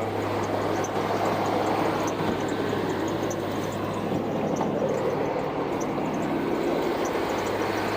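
Truck engine running steadily at idle, a continuous low hum under an even rumble.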